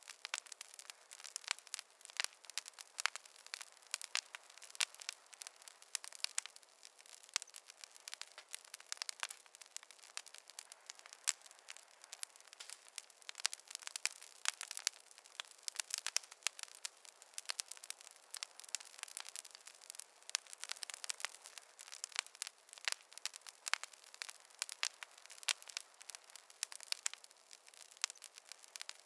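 Campfire crackling: a dense, irregular run of small sharp pops and snaps over a faint hiss.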